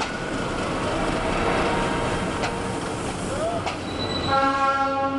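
Passenger train moving along a station platform, a steady rumble and rush of wheels on rails with two sharp clicks. A steady pitched tone sounds for about a second near the end.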